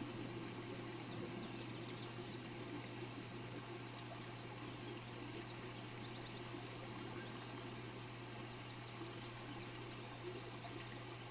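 Steady rain falling, with a few faint, short bird chirps now and then.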